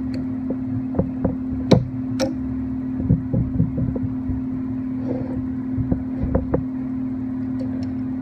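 Scattered metal clicks and knocks as the carriage gib adjusting screws of a 7x10 mini lathe are worked and the carriage is tried for play, over a steady low hum.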